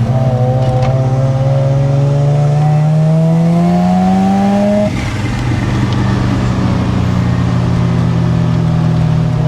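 Mazda RX-7's rotary engine pulling under acceleration, its pitch rising steadily for about five seconds, then dropping suddenly and holding at a steady speed.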